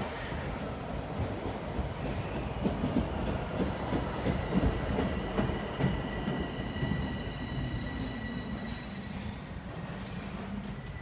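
Toronto subway train running on the rails: a steady rumble with a run of sharp knocks through the middle and thin high squealing tones from the wheels, easing off toward the end.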